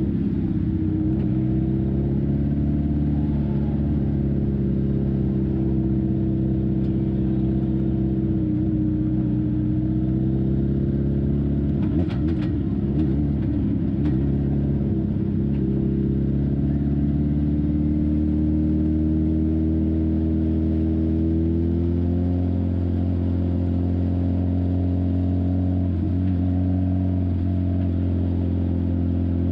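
Legend car's Yamaha four-cylinder motorcycle engine heard from inside the cockpit, running at low revs as the car rolls slowly, its pitch drifting gently up and down. A brief rattle comes in a little before halfway, and the engine settles into a lower, steady idle for the last third.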